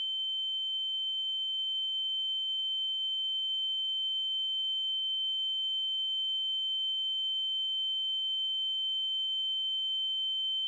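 A steady, high-pitched electronic sine tone held on one note with nothing else beneath it, the ear-ringing effect of a film soundtrack.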